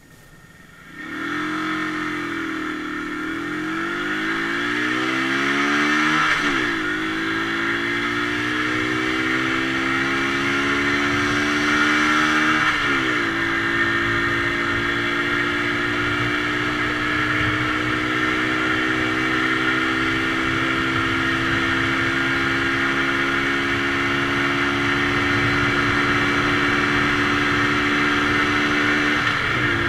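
Romet ZXT 50's 139FMB 50cc four-stroke single-cylinder engine accelerating hard through the gears. Its pitch climbs, falls sharply at each upshift about six and thirteen seconds in, then rises slowly over a long stretch before another shift near the end.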